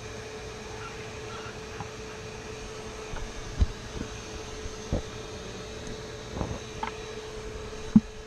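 Bee vacuum running with a steady hum, broken by several knocks and thumps from handling, the loudest near the end.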